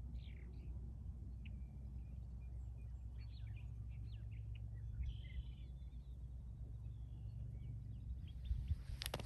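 Scattered bird chirps over a steady low rumble, with a sharp click near the end.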